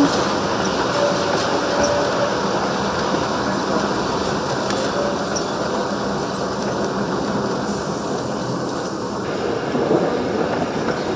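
Narrow-gauge heritage passenger train running along the track: a steady rumble and rattle of carriage wheels on rail. Brief, faint wheel squeal comes in during the first couple of seconds.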